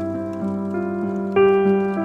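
Slow, soft piano music with sustained notes, one note struck louder about one and a half seconds in, over faint scattered crackles.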